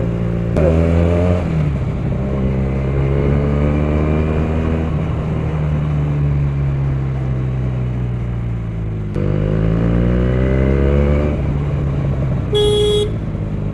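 Benelli TNT 300 parallel-twin motorcycle riding with a loud exhaust: the engine note jumps about half a second in and slowly falls. It picks up again about nine seconds in and rises before easing off. A vehicle horn beeps briefly near the end.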